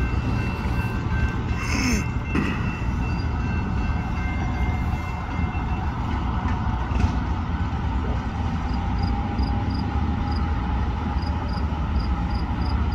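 Train rolling away on the rails, with a steady rumble of wheels and running gear. A faint high-pitched pinging, about three a second, joins in the last few seconds.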